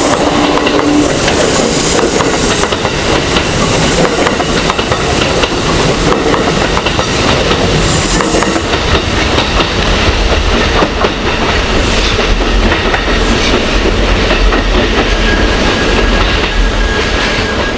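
Kintetsu 3200 series electric train running at close range, wheels clacking over rail joints, with a heavy rumble that grows stronger in the last few seconds.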